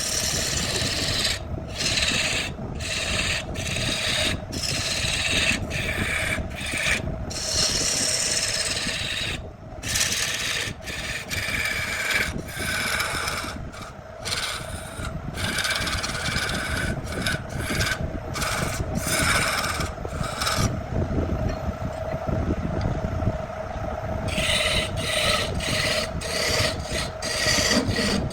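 Wood being abraded in quick repeated scraping strokes over a steady motor hum; the scraping stops for a few seconds after about twenty seconds, leaving the hum, then starts again.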